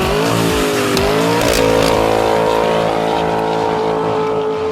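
2019 Dodge Hellcat's supercharged V8 through a Kinney's Tunnel Ram performance exhaust, revving up over the first second and a half and then held steady at high revs.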